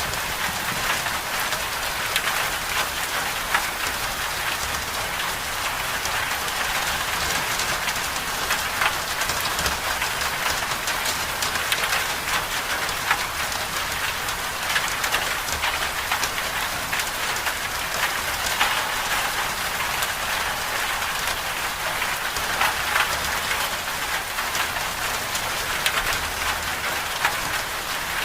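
Steady medium rain falling on a surface, a dense even hiss of many small drop impacts.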